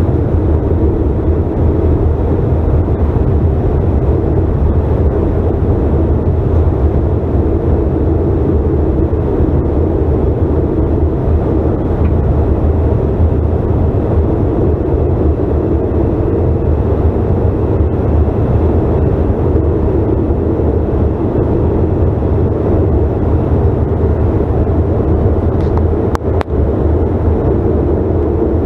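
Steady drone of a CRJ900 regional jet heard from inside the cabin: the rear-mounted turbofan engines and airflow. A brief click sounds near the end.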